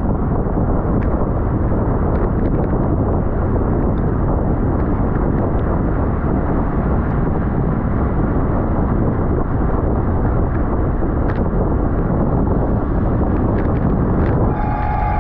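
Heavy wind rushing over a bike-mounted or helmet camera's microphone at racing speed, a steady loud low rumble. Near the end a brief higher steady tone cuts through.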